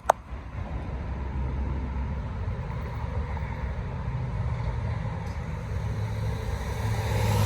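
Motor vehicle running with a steady low rumble, a click right at the start, growing louder near the end.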